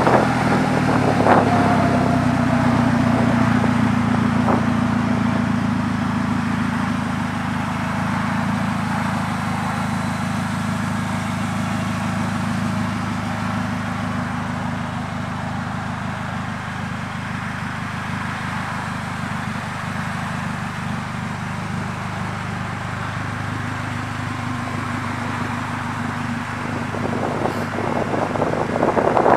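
Polaris Slingshot's four-cylinder engine idling steadily, a little louder in the first few seconds and then settling. Near the end, wind buffets the microphone.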